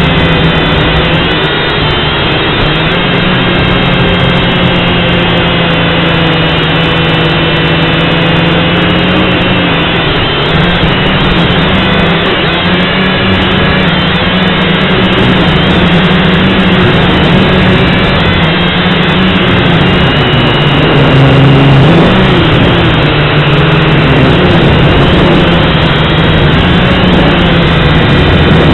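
Syma X5C quadcopter's small brushed motors and propellers in flight, a steady buzzing whine whose pitch shifts up and down as the throttle changes, heard close up through the camera mounted on the drone.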